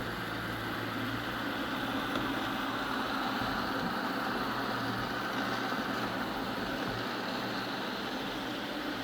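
Eufy robot vacuum running, a steady motor whir and hiss of its suction fan.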